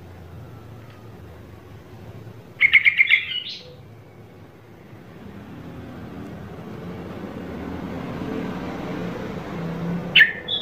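A bird calling: a quick run of about six chirps about two and a half seconds in, and another short call near the end, over a low background rumble.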